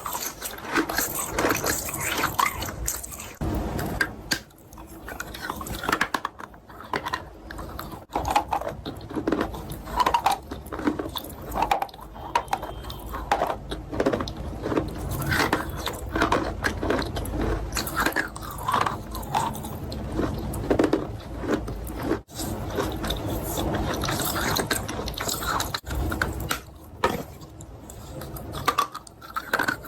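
Close-miked biting and chewing of chalk with chalk paste: a continuous run of irregular crunches and crackles.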